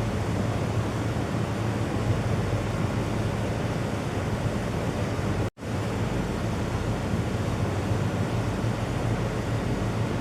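Steady rushing noise with a low hum underneath, cutting out completely for an instant about halfway through.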